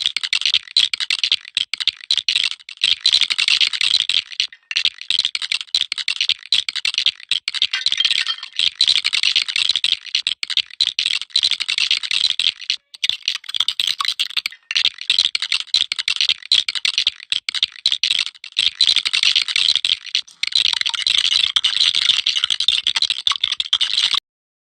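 Plastic Lego bricks rattling and clicking in a dense, continuous clatter, broken by a few brief gaps.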